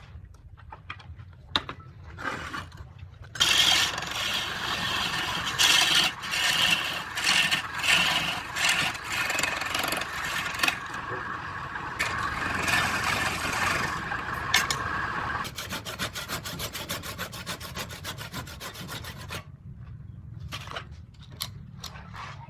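A tool rubbing and scraping against wood turning on a lathe, in uneven strokes that start a few seconds in and become quicker and more regular before stopping near the end, over a steady low motor hum.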